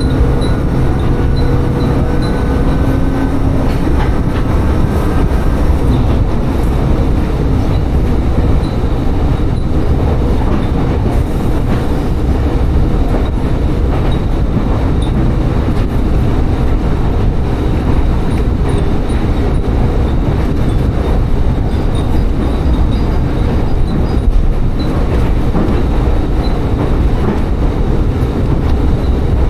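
Tsugaru Railway railcar running along the line: steady rumble of the engine and wheels on the rails, with a whine that fades about three seconds in.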